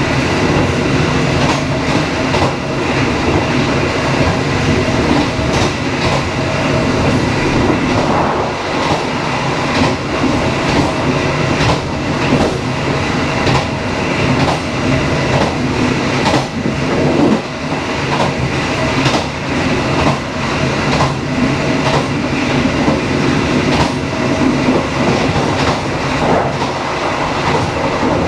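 Dharmawangsa passenger train running along the line, a steady rumble of wheels on rails with irregular clicks from the rail joints.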